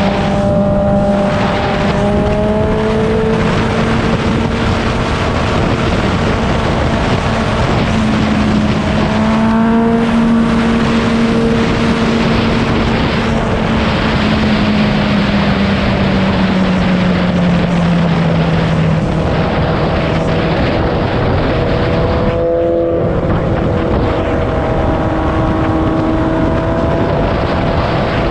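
Motorcycle engine running under way over steady wind rush. The engine pitch rises twice as it accelerates, falls away as it slows, and drops out briefly near two-thirds of the way in before picking up again.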